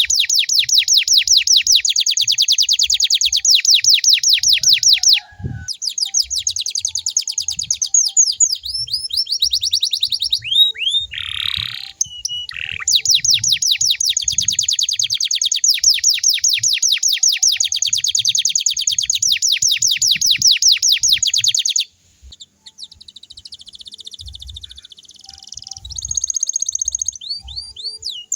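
Domestic canary singing long, fast trills of rapidly repeated falling notes, broken off briefly about five seconds in. Near the end the trilling stops and softer, more varied twittering follows.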